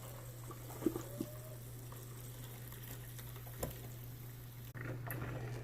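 Coffee maker finishing its brew, with faint gurgling and bubbling over a steady low hum and a few light knocks.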